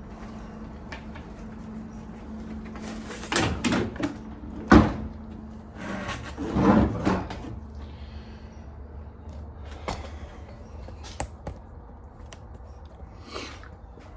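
A few sharp knocks and short clattering bangs, like things being handled and set down or a cupboard door being shut. The loudest knock comes about five seconds in. A faint steady hum underneath dies away about halfway through.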